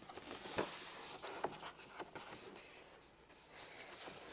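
Faint rustling of paper with a few light ticks, as a picture book's page is handled and turned.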